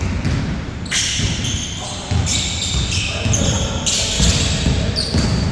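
Basketball game sounds in an echoing gym: a ball bouncing on the court and players' shouts mixed with the scuffle of play.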